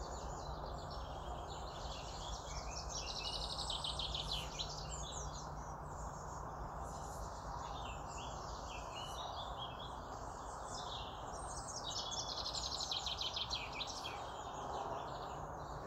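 Songbirds chirping and trilling in clusters of rapid high notes, over a steady faint background hiss.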